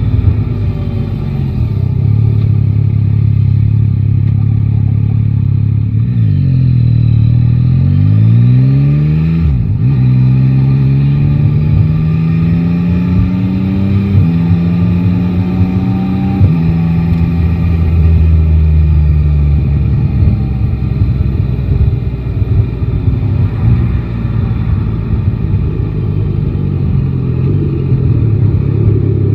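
Yamaha Tracer 9 GT's 890 cc inline three-cylinder engine on the move. It runs steadily, then the pitch falls as the bike slows. It picks up again in a rising pull with two upshifts a few seconds apart, then settles into a steady cruise.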